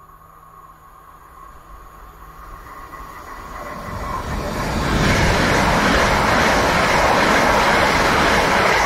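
Great Western Railway passenger train approaching and running through the station without stopping. The rush of wheels on rail grows steadily louder and is at its loudest from about five seconds in as the carriages pass close by.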